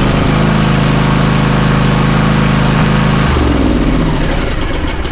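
Zero-turn riding mower's engine running steadily, freshly refilled after an oil and filter change. About three seconds in, the pitch drops and the sound eases off.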